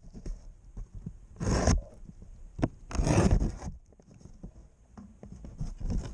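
Two short bursts of rubbing, scraping noise, about one and a half and three seconds in, with a few light clicks between them, as parts are handled and worked into place.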